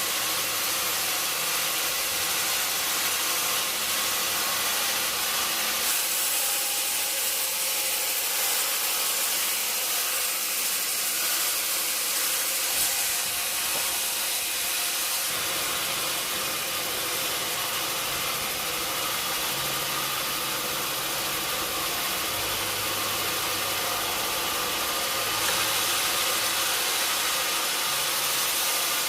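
Sawmill saw running and cutting through mahogany wood, a steady loud hiss that shifts in strength a few times.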